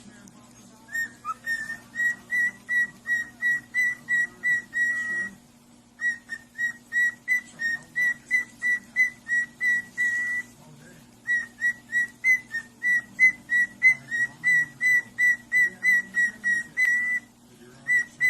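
A pet parrot whistling the same short note over and over, about three whistles a second, in three long runs with brief pauses between them.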